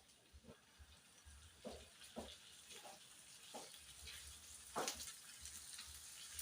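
Faint kitchen cooking sounds: a few soft, irregular knocks of utensils, with a quiet sizzle-like hiss building from about four seconds in.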